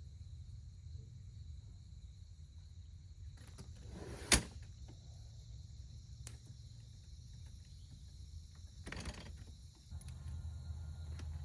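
Steady high insect chirring over a low steady rumble. A single sharp knock about four seconds in, and a brief rustle near nine seconds, from gear being handled.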